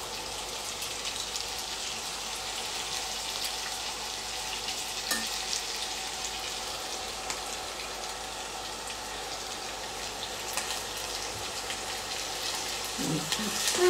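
Marinated chicken wings frying in shallow hot oil in a pan: a steady sizzling hiss with scattered small pops and crackles.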